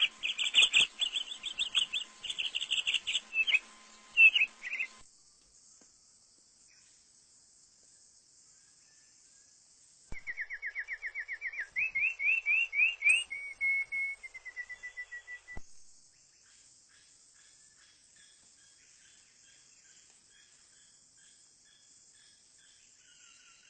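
A bird singing in two bursts of rapid, repeated chirps: the first breaks off about five seconds in, and the second runs from about ten to sixteen seconds, with notes sliding up and then settling lower. A steady high insect buzz continues underneath.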